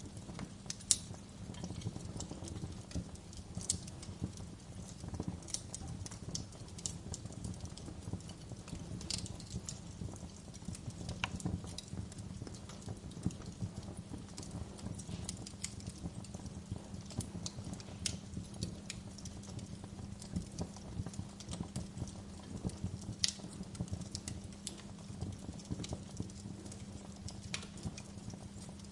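Wood fire crackling in a fireplace: irregular sharp snaps and pops over a steady low rumble of the burning logs, with a couple of louder pops about a second in and near the end.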